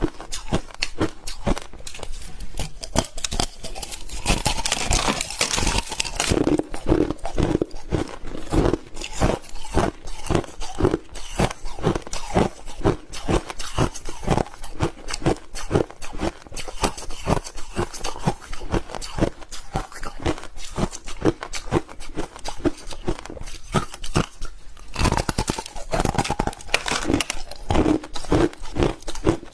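Crushed ice being bitten and chewed close to the microphone: dense, rapid crunching and crackling that comes in fuller bursts a few seconds in and again near the end.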